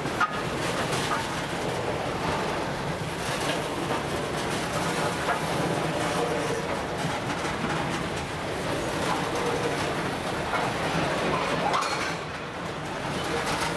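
Freight train of open-top gondola wagons rolling past: a steady rumble of wheels on rails, with clacks as the wheels cross the rail joints.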